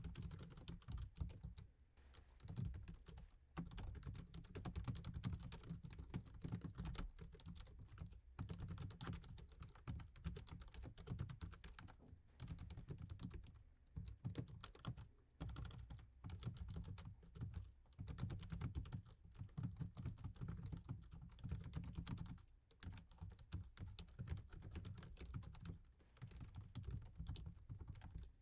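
Fast, continuous typing on a laptop keyboard: a dense run of soft key clicks, broken by a few brief pauses.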